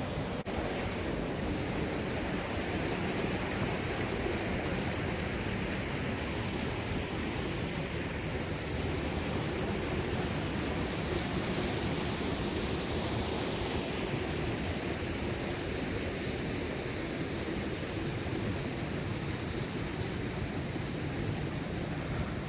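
Steady road and engine noise of a moving car, heard as an even rushing with no distinct events.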